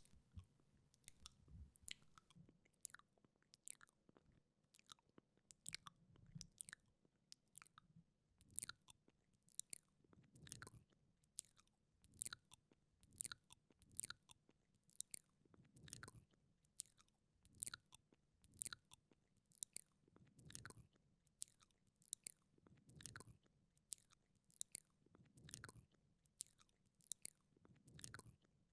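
Wet mouth sounds close to a binaural microphone: tongue and lip clicks and smacks, two or three a second, with a soft wet swell every couple of seconds.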